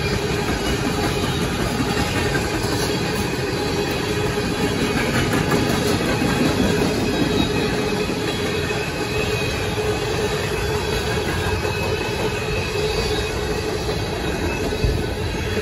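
Freight cars of a BNSF manifest train rolling steadily past over a road grade crossing: a continuous rumble and rattle of steel wheels on rail, with a thin, steady squeal of wheels.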